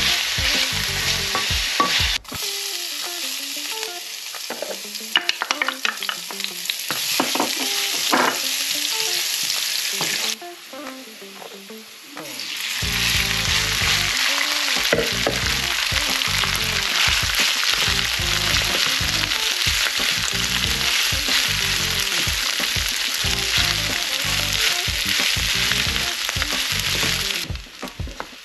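Food sizzling and frying in hot oil while a wooden spatula stirs and scrapes the pan: first beef tapa, then garlic fried rice. The sizzle drops away for about two seconds near the middle, then comes back loud and steady.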